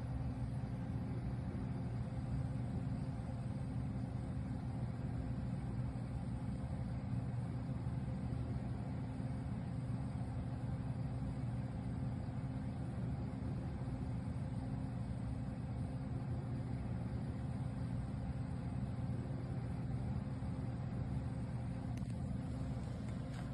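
Compressor of a BougeRV CRPRO 30-quart 12 V car fridge running with a steady low hum that does not change.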